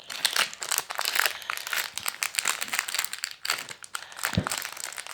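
Close, dense crinkling and crackling of crinkly material being handled, irregular throughout, with one brief low bump about four seconds in.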